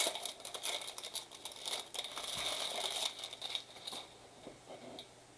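Trading card pack wrappers crinkling and tearing as Bowman blaster packs are ripped open by hand, dying down to quiet about four seconds in.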